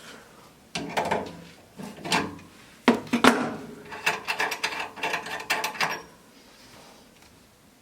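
Clicks, knocks and rattles from handling the tankless water heater's service valves: caps being unscrewed and hoses fitted. The noises come in irregular bursts and stop about six seconds in.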